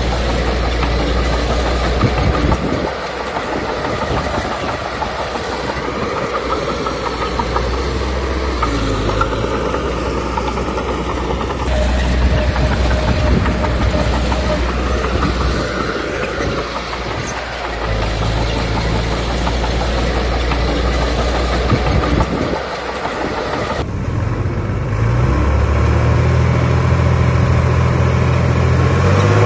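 Diesel engine of a small Komatsu D21P crawler bulldozer working under load, its low note rising and easing in stretches over a continuous metallic clatter of the tracks. The engine revs up near the end.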